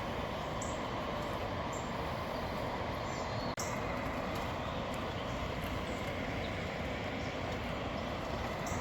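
Steady outdoor background noise with a few faint, short high chirps in the first couple of seconds and a single sharp click about three and a half seconds in.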